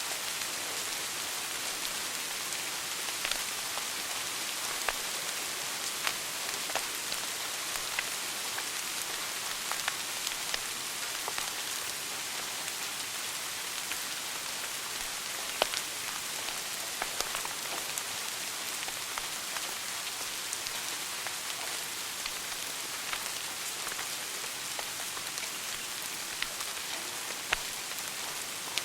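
Wood fire crackling in a fireplace: a steady hiss with irregular sharp pops, the loudest about fifteen seconds in.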